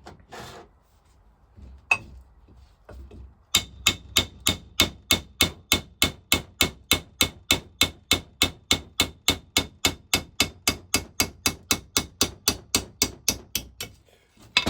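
Light, rapid hammer taps on a seized part of a Lister TM engine's vaporiser, shocking it loose, with the hammer falling under its own weight and no force behind it. A couple of separate taps come first, then about three and a half seconds in a steady run of ringing taps starts, about four a second, and stops shortly before the end.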